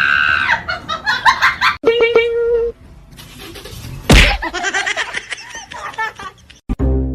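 Person laughing in quick pulses, then after a cut a single sharp slap about four seconds in.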